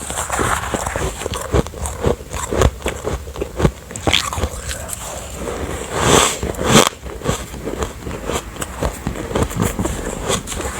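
Close-miked biting and chewing of refrozen soft ice: a steady run of fine, sandy crunches and crackles, with a couple of louder bites about six to seven seconds in.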